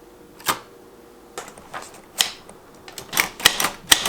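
Typewriter clacking: a few single clicks, then a quick run of keystrokes near the end, as a newly fitted ribbon is tried out.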